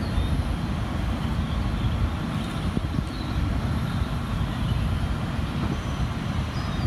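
Steady low rumbling outdoor noise that flutters unevenly, with a few faint, short high chirps over it.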